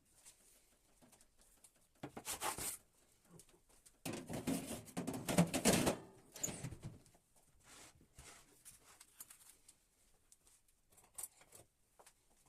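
Bursts of rustling and handling noise: a short one about two seconds in and a longer, louder one from about four to six seconds, with faint scratches and ticks in between.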